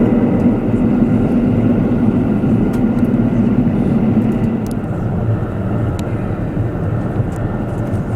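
KiHa 85 series diesel express train running at speed: a loud, steady mix of engine drone and wheel-on-rail noise with a few sharp clicks. The low droning note fades out about two-thirds of the way through.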